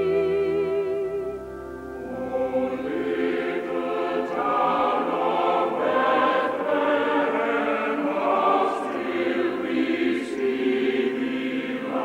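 Choral music: a held sung note with vibrato fades out, then a choir comes in fuller about two and a half seconds in and sings on.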